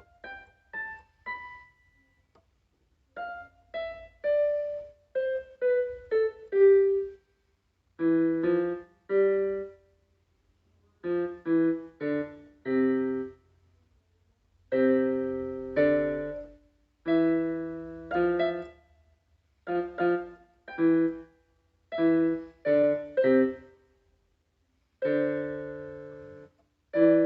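Solo piano playing slowly, single notes at first, then chords with low bass notes. Each note or chord is struck and left to ring out, with short silences between phrases.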